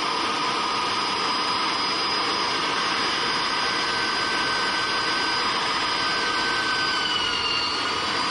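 Electric drill running steadily while boring into hard wrought iron under heavy pressure, a constant motor whine that dips briefly in pitch near the end as the bit loads up.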